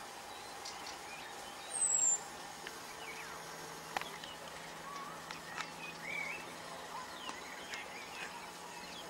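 Wild birds calling in scrubland: a loud, short, high whistle falling in pitch about two seconds in, then scattered chirps and short trills, with a single sharp tick about four seconds in. A faint steady low hum runs underneath.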